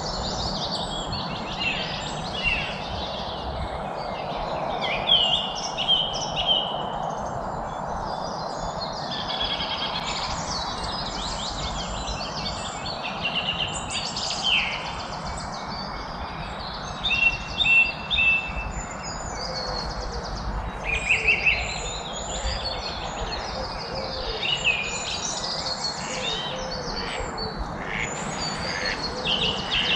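A chorus of several songbirds chirping and trilling, their calls overlapping, with a few louder calls now and then, over a steady low background hiss.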